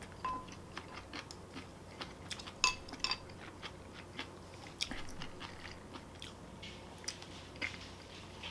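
Close-miked chewing of a mouthful of food, with many short, soft wet clicks and smacks of the mouth.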